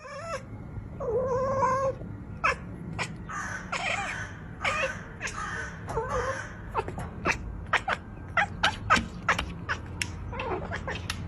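A cat meowing and yowling in drawn-out, wavering calls, with a run of many short sharp clicks and knocks in between. A steady low hum lies underneath.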